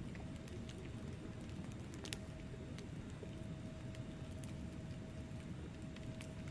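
Wood fire burning in a fireplace: a low steady rumble of flames with scattered sharp crackles and one louder pop about two seconds in.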